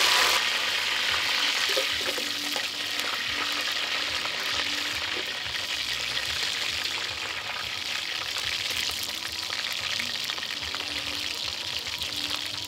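Onions frying in hot palm kernel oil: a steady sizzle with fine crackling throughout.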